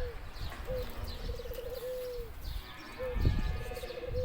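A dove cooing: twice, a short note, then a fast pulsing trill, then a long held coo that drops at its end. Small birds chirp faintly and high above it, and a few low rumbles come in the second half.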